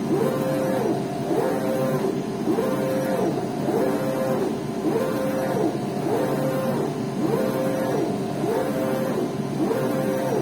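Prestige 60x90 UV flatbed printer's print-head carriage motor whining as the carriage sweeps back and forth. On each pass the pitch rises, holds and falls again, about once a second.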